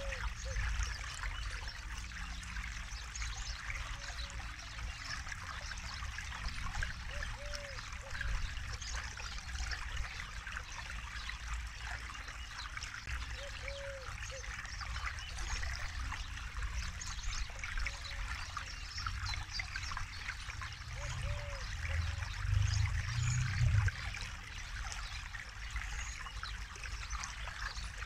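Forest river flowing and trickling over stones, a steady rushing babble. Short low arching calls recur every few seconds, and a low rumble swells briefly about three quarters of the way through.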